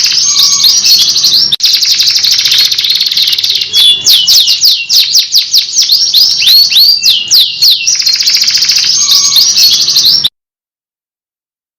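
Canary singing a loud, fast song of rolling trills and quickly repeated sweeping whistled notes. It cuts off abruptly about ten seconds in, leaving dead silence.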